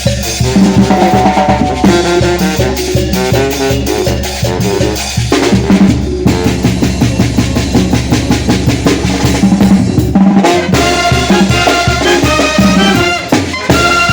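Mexican brass band playing a lively piece: brass melody over a steady drum and percussion beat with a low bass line.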